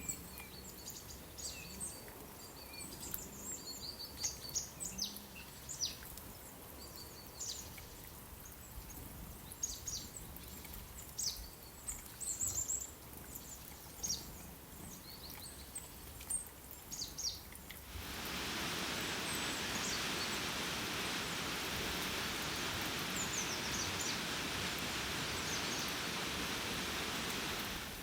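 Small birds chirping and singing in short scattered calls. About two-thirds of the way through, a steady hiss of noise starts abruptly and runs on evenly until it cuts off at the end.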